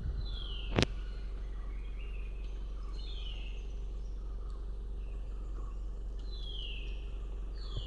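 A forest bird calling: three short falling calls, each about half a second, roughly three seconds apart. A sharp click comes about a second in, over a steady low rumble.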